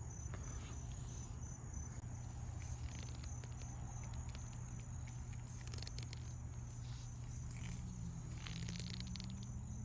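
Insects chirping in a steady, pulsing high trill over a low steady hum, with faint scattered clicks.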